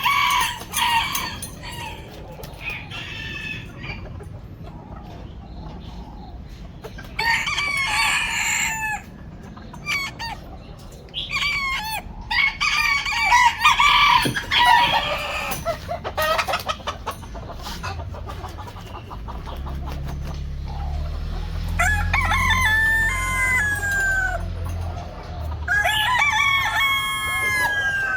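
Roosters crowing repeatedly, about five long calls spread a few seconds apart, with hens clucking in between. A low rumble runs underneath through the second half.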